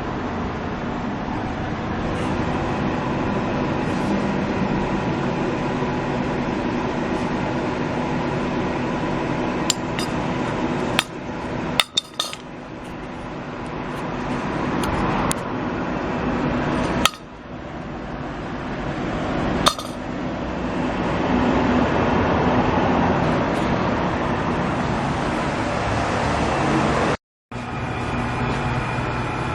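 A steady mechanical hum, broken by a few sharp metallic clicks and clinks.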